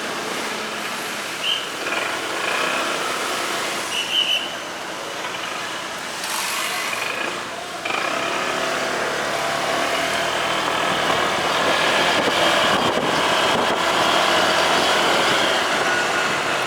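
Motorcycle on the move: engine and road/wind noise running steadily, growing louder about eight seconds in.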